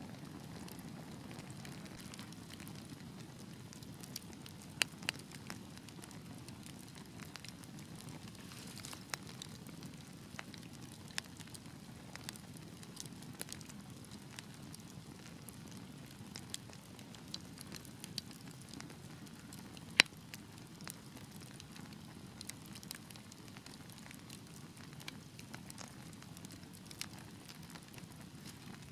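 Fire in a fireplace crackling: a steady low rumble of flames with scattered sharp pops, the loudest about twenty seconds in.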